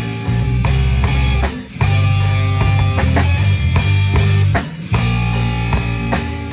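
Live rock band playing with electric guitar, bass and drums: loud, heavy chords on a steady beat, breaking off briefly twice before coming back in.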